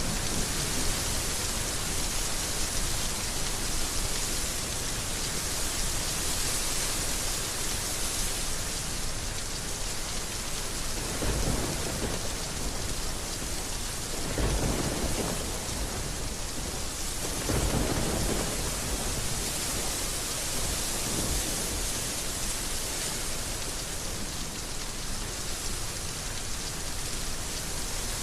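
Heavy rain falling steadily, with three low rumbles in the middle of the stretch.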